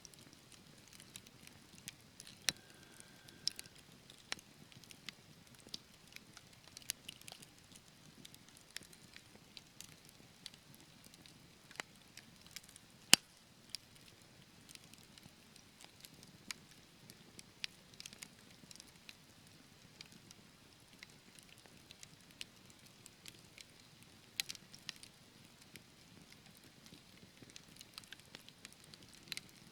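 Logs burning in a fireplace: scattered sharp crackles and pops over a faint low hiss. The loudest pop comes about thirteen seconds in.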